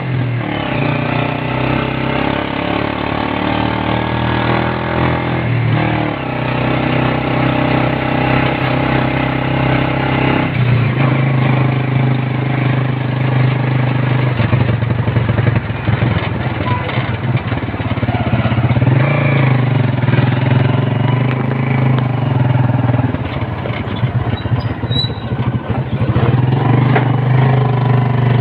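Motorcycle engine of a sidecar tricycle running under way, a steady low engine note whose pitch shifts several times as the engine speeds up and eases off.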